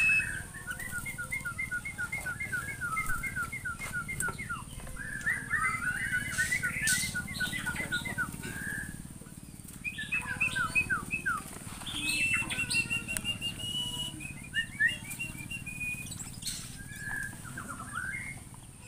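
Small birds calling in quick runs of short repeated chirps, several notes a second, with a brief pause about halfway through and fewer calls near the end.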